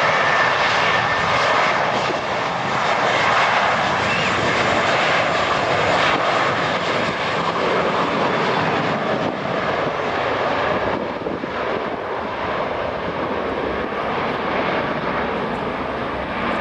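Airliner engines running loud and steady, easing off slightly in the second half.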